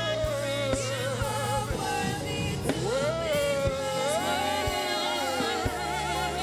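Live gospel worship song: a woman's voice singing long held, wavering notes over a band with bass and a steady drum beat.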